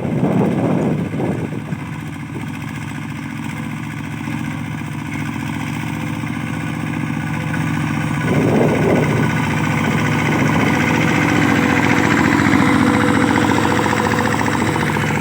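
Mini tractor's engine running steadily, growing louder through the first two-thirds.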